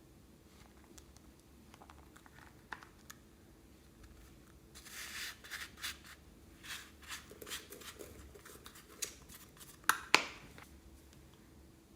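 Hands handling slime and plastic piping bags: a few faint clicks, then a run of short scratchy, crinkly noises from about five seconds in, ending in two sharp snaps near the end.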